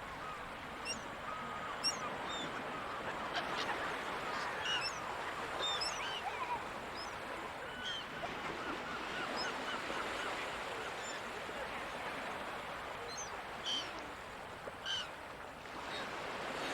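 Gulls calling over a steady wash of ocean surf. Many short, sharp cries come in quick succession, with two louder calls near the end.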